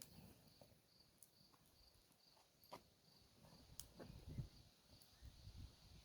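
Near silence with a faint, high cricket chirp repeating about three times a second, and a few faint clicks around the middle.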